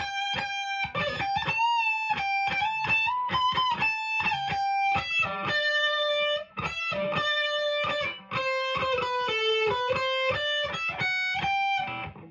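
Epiphone Les Paul Traditional PRO-III Plus, played on its bridge humbucker through the ultra gain channel of a Marshall amp: a distorted single-note lead line with bent, wavering notes, ending just before the end.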